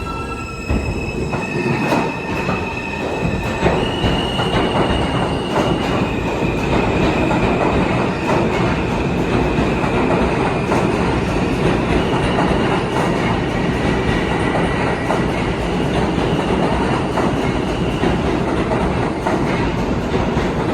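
New York City Subway R160 train running on the track: a steady rumble of wheels with many clicks over rail joints and a thin, high wheel squeal. It grows louder over the first few seconds, then holds.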